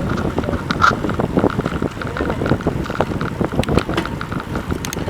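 Wind buffeting the microphone of a camera carried on a moving bicycle, a loud uneven rumble, with riding noise from the bike underneath.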